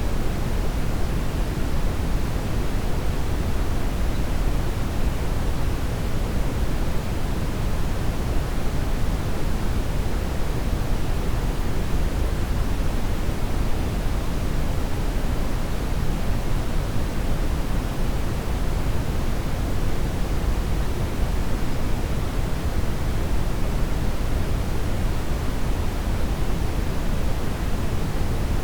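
Brown noise: a steady, even rush, deepest and strongest in the low end, with no change throughout.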